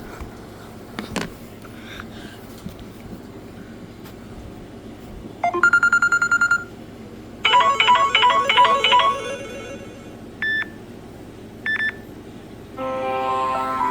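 Samsung Galaxy S6 notification tones played one after another. There is a quick run of rapid pulsed beeps, then a short melody of bright pulsed notes, a single beep and a double beep. A longer chiming ringtone starts near the end. There is a click at the start and another about a second in.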